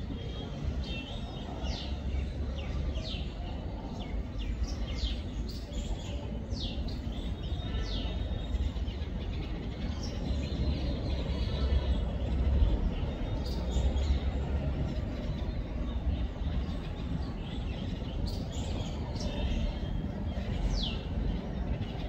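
Small birds chirping: short, quick downward-sweeping chirps, clustered in the first few seconds and again near the end, over a steady low rumble.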